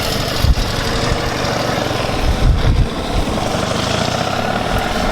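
Vehicle engine idling steadily, with a few low thumps about half a second in and again around two and a half seconds in.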